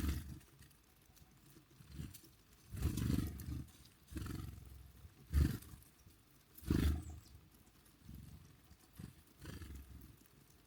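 Wind gusting against the microphone: irregular low rumbling buffets, about six of them, each lasting under a second.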